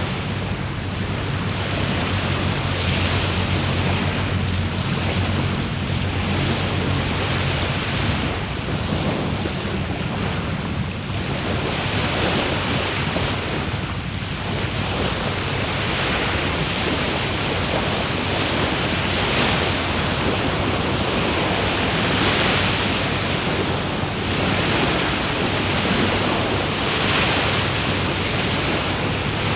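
Wood fire burning in a fire pit with a steady rushing noise, joined by a constant high-pitched tone and a low hum that eases after the first several seconds.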